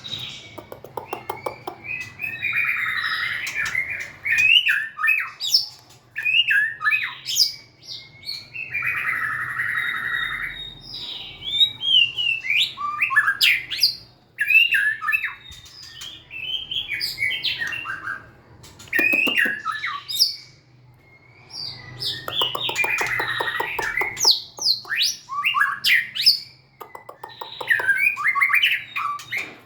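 White-rumped shama singing a long series of varied phrases: quick whistled notes that sweep up and down, mixed with harsh, rapid chattering notes, broken by brief pauses. A faint low hum runs underneath.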